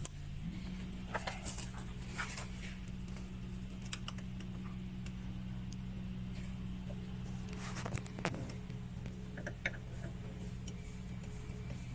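Small scattered clicks and taps of a tyre-pressure sensor being screwed onto a truck wheel's valve stem, over a steady low engine idle.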